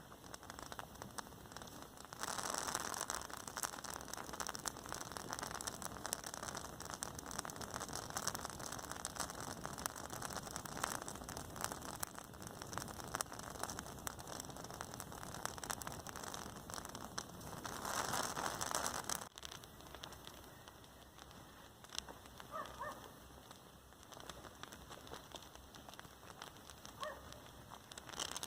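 Rain pattering steadily, a dense spread of fine drops. It falls harder for most of the stretch, then eases suddenly about two-thirds of the way through.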